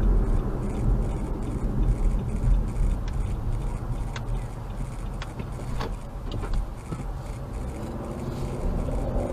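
Steady low road and engine rumble of a moving vehicle heard from inside its cab, with scattered clicks and rattles.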